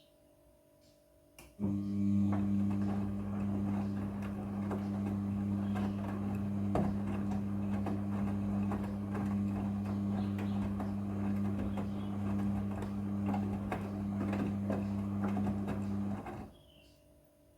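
Midea front-loading washing machine running a steady electric hum with water rushing and crackling through it. It starts about a second and a half in and cuts off abruptly near the end.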